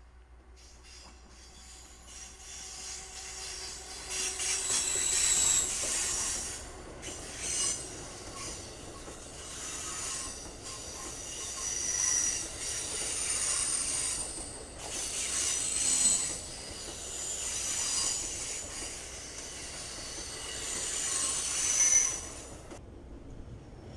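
Amtrak passenger train behind an electric locomotive passing close by, its wheels squealing over the rolling rumble of the cars. The high-pitched squeals come and go in waves, and the sound cuts off suddenly near the end.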